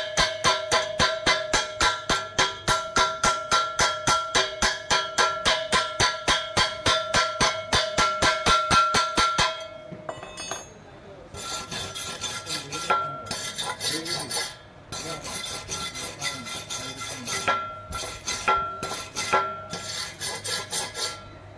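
A hand tool scraping and knocking on a freshly welded steel box pipe to clean the weld. It starts as fast, even back-and-forth strokes, about four or five a second, with the pipe ringing. About ten seconds in, after a short pause, it turns to slower, irregular scrapes.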